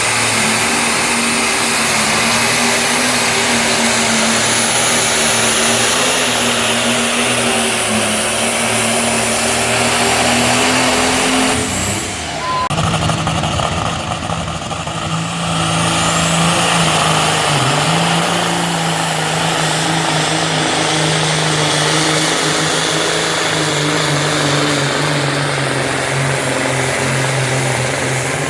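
Tractor-pull engine running loud at full throttle under load, with a steady pitch. About twelve seconds in it breaks off briefly and a lower-pitched engine run takes over.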